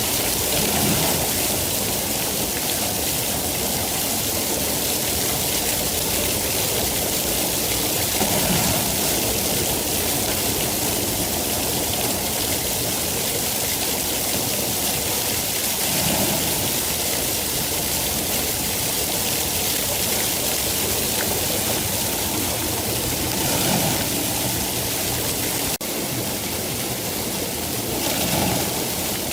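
Steady rain, a continuous even hiss that swells briefly every seven or eight seconds, with a single click near the end.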